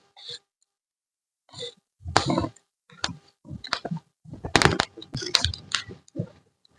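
Irregular handling noises at camp: scattered clicks, light knocks and rustling in short bursts, with silent gaps between them and a busier cluster about four to six seconds in.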